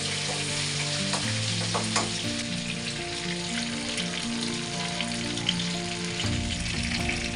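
Chicken pieces frying in hot oil, a steady sizzle with fine crackles throughout. Background music plays underneath.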